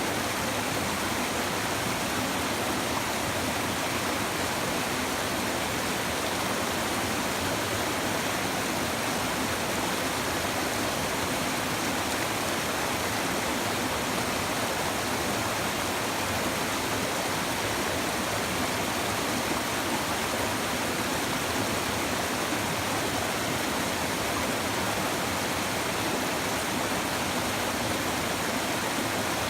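A river's shallow water babbling and rushing steadily over stones, a continuous, even sound without a break.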